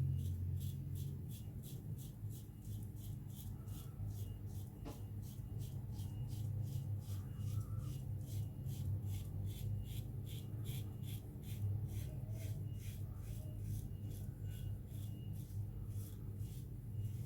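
Gillette Black Beauty adjustable double-edge safety razor scraping through lathered stubble in short, quick strokes, about three a second, during a first pass.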